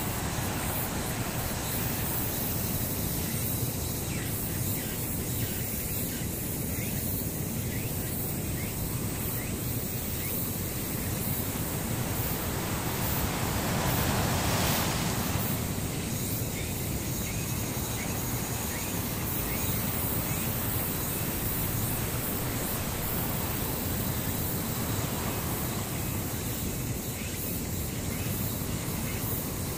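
Steady rushing noise, like surf or wind, swelling briefly about halfway through.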